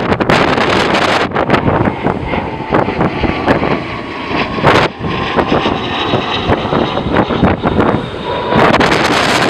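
Strong gusty wind buffeting the microphone, with a jet airliner's engine whine faintly under the gusts through the middle few seconds.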